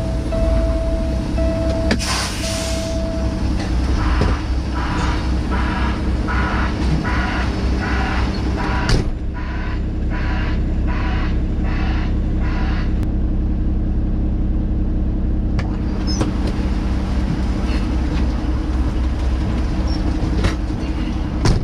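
Semi truck's diesel engine idling steadily, heard from inside the cab. An interrupted beeping tone sounds for the first few seconds, and a pulsing sound repeats a bit faster than once a second until about halfway through.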